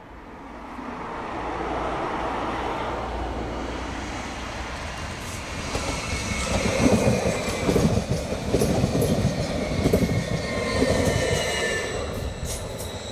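Multiple-unit passenger train approaching and passing close by, its wheel and track noise building to a loud, uneven rumble and clatter about halfway through. A thin high squeal from the wheels comes in over the second half.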